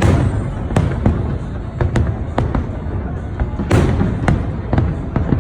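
Large aerial fireworks display: irregular sharp bangs, roughly two a second, over a deep rolling rumble of shell bursts.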